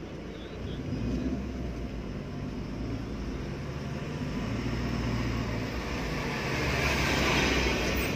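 Hyundai Santro car's engine and tyre noise heard from inside the cabin while driving, a steady low hum under road hiss that grows louder toward the end.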